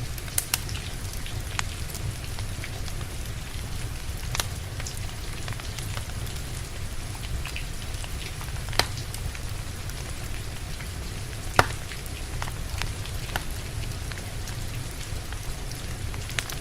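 Steady rain falling, with a wood fire crackling over it: scattered sharp pops and snaps from the burning logs, the loudest about two-thirds of the way through.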